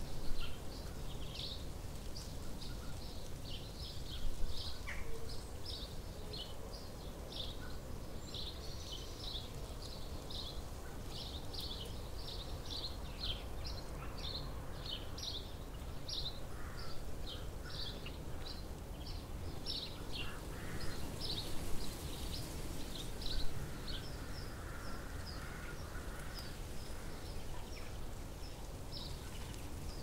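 Outdoor birdsong ambience: birds chirping short, high notes over and over, about two a second, over a low, steady background rumble.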